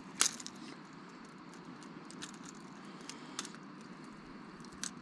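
Faint, steady outdoor background with a few sharp, scattered clicks and ticks, the strongest just after the start.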